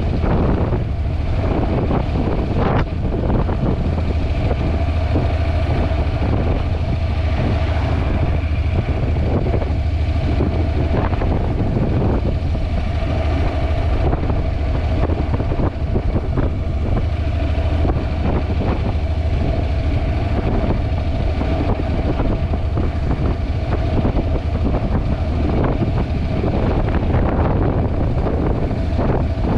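Steady wind rumble on the built-in microphone of a GoPro riding on a Honda NC750X motorcycle at road speed, with a faint steady tone of the running motorcycle underneath.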